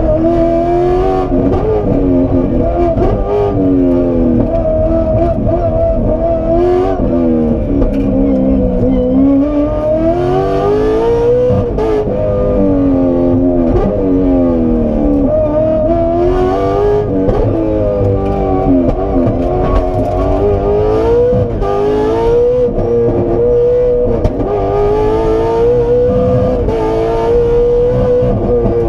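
Aston Martin Vantage rally car's engine heard from inside the cockpit at full attack, the pitch climbing hard and then dropping back again and again as it is driven up through the gears and braked down between corners.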